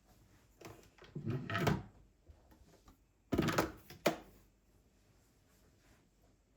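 Two brief clusters of knocks and scrapes from objects being handled, like a drawer or cupboard being worked, the second cluster a little after the middle and ending in a sharp knock.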